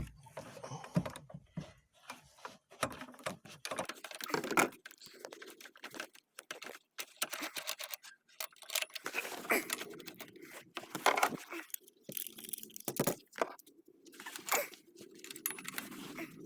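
Hand-tool and parts handling: irregular clicks, light metallic rattles and scrapes.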